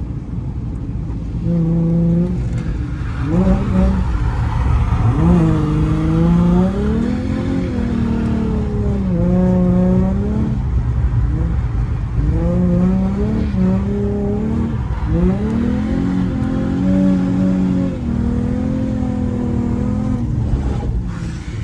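Holden Commodore V6 engine revving hard over and over during a drift run, its pitch rising and falling with the throttle and held high for stretches between lifts.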